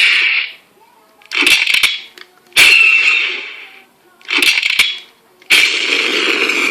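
A converted toy Star Wars E-11 blaster firing its sound-board blaster effects through an added amplifier, very loud: three separate shots, then about two-thirds of the way through a longer continuous effect that has almost a rumble to it.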